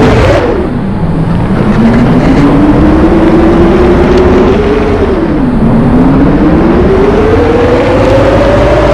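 An engine running loud, its pitch dropping sharply about a second in and again past the middle, then climbing slowly each time, as if revving up and easing off.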